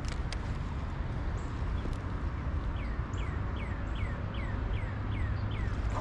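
A songbird singing a run of about eight short falling whistled notes, close to three a second, starting about halfway through, over a steady low rumble.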